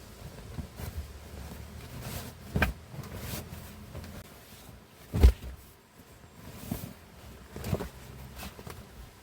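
Several knocks and clunks with quieter clicks between them, the loudest about five seconds in.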